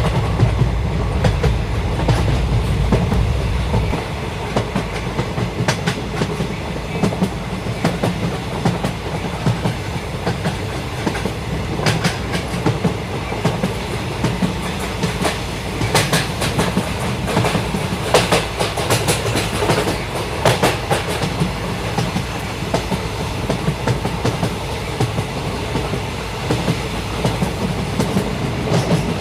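A train running along the track: a steady low rumble with the wheels clicking and clacking irregularly over the rail joints.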